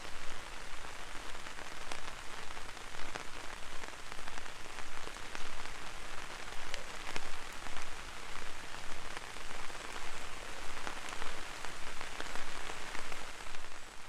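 Gentle rain falling on an umbrella: a steady hiss of rain with many sharp, close drop ticks on the canopy.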